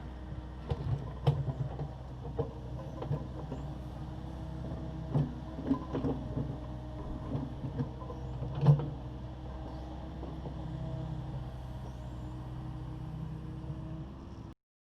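Takeuchi TB260 excavator's diesel engine running steadily, with a series of sharp clanks and knocks over the first nine seconds, the loudest near the middle. The sound cuts off suddenly near the end.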